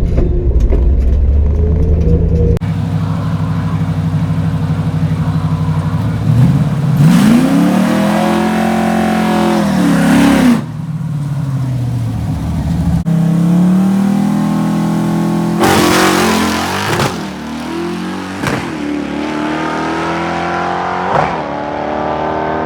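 Car engine revving hard under acceleration: the pitch climbs, then drops back at shifts, with loud rushing stretches and a few abrupt changes in the sound.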